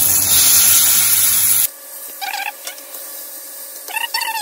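Spiced paneer and vegetable masala sizzling as it is spooned into hot oil in a frying pan, with a spoon scraping it out of a paper bowl. Under two seconds in, the sound cuts off abruptly to a much quieter stretch with two brief higher-pitched sounds.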